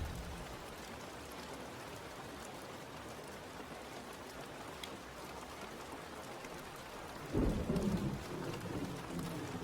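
Steady rain falling as an even hiss, with a low rumble of thunder breaking in about three-quarters of the way through.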